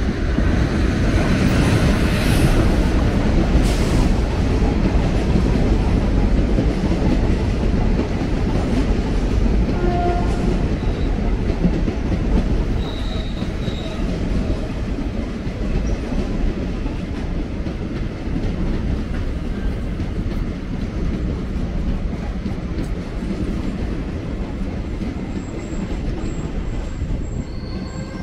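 Train running past on the track: a steady, loud rush of wheels on rails with clicking over the rail joints, slowly fading, and a faint high wheel squeal near the end.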